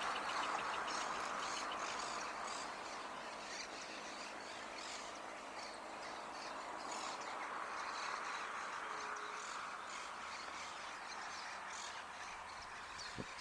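Birds chirping in short, scattered high notes over steady, fading traffic noise.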